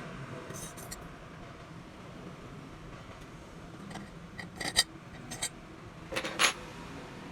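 A few sharp clinks and clatters of hard objects being handled, in small clusters, the loudest near the end, over a steady low background hum.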